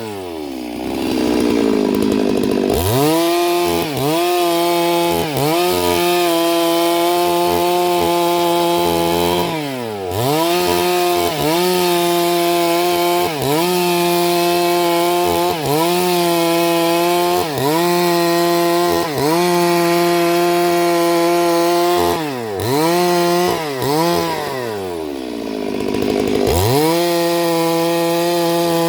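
Chainsaw running at high revs and cutting wood, its pitch sagging briefly every second or two as the chain bogs in the cut. Twice the engine drops away toward idle and then revs back up: near the start and again about 22 to 26 seconds in.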